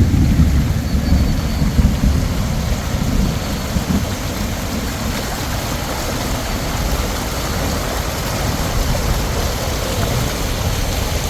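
Heavy rain pouring steadily in a storm, with a deep low rumble over the first few seconds that then eases.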